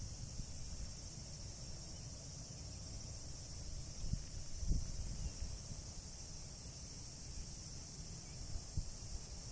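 Steady high-pitched insect chorus, with low rumbling bumps now and then on the microphone, strongest about four to five seconds in.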